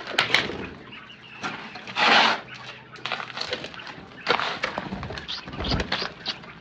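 A flock of chickens at feeding time, clucking amid scattered knocks and scuffling, with a loud rushing burst about two seconds in.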